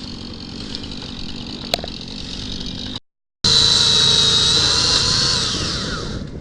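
Chainsaw running steadily at a distance, then, after a brief break, a closer, much louder chainsaw at high revs whose pitch drops as it slows down near the end.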